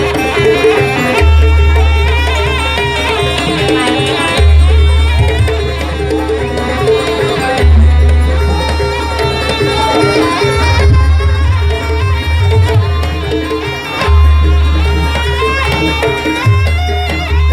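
Traditional Banyuwangi jaranan buto music: hand drums and percussion with a wavering high melody line, over deep bass notes held for a few seconds and repeating.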